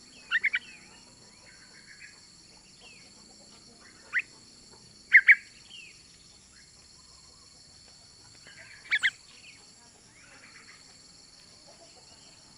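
Female yellow-vented bulbul (trucukan) giving short, sharp call notes in quick clusters: three just after the start, one about four seconds in, a loud pair about five seconds in and another pair about nine seconds in. This is the female calling to draw a male. A steady high insect drone runs underneath.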